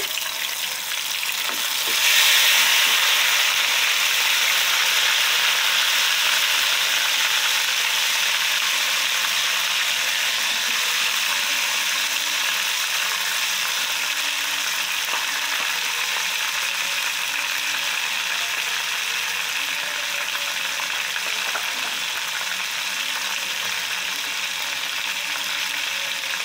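Ground garlic paste sizzling in hot tempering oil, a steady frying hiss that jumps up about two seconds in and then slowly eases.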